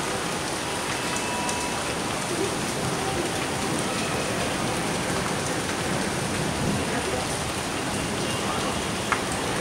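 Steady rain falling, an even hiss of drops on surfaces, with one sharp click about nine seconds in.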